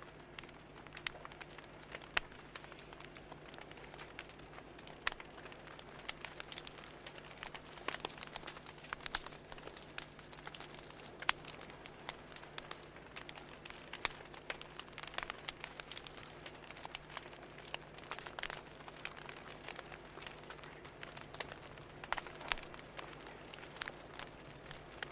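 Fire crackling: irregular sharp pops and snaps, some louder than others, over a steady low hum.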